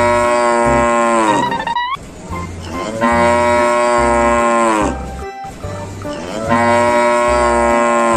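A cow mooing three times in long, drawn-out calls, each dropping in pitch at its end, over background music with a steady low beat.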